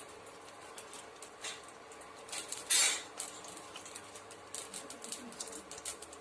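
Mustard seeds spluttering in hot oil in a kadai: scattered small irregular pops, with a short louder sizzle about three seconds in.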